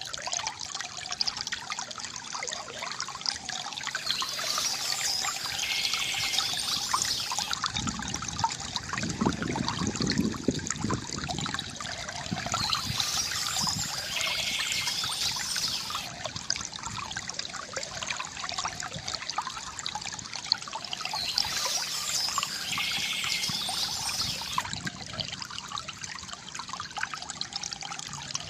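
A stream flowing and trickling steadily over stones. Birds sing in short spells that recur about every eight seconds, as if the track is looped.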